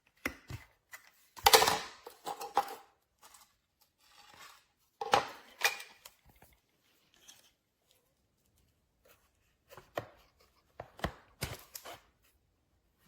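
Irregular clicks and knocks of hard plastic parts being handled, with louder clunks about a second and a half in and again around five seconds in.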